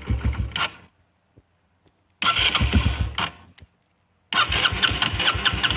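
Honda CRF125F's single-cylinder four-stroke engine being cranked over cold with the choke off, in three separate attempts, each a quick run of pulses that dies away without the engine catching.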